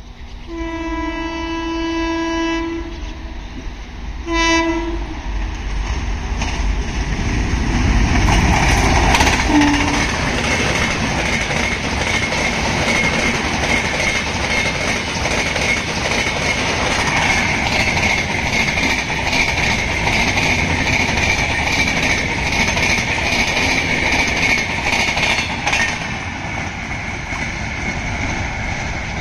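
Indian Railways WAP7 electric locomotive sounding its horn, one long blast and then a short one, as the train approaches. The loud rumble and wheel clatter of its passenger coaches rolling past follow, with a thin steady whine in the later part.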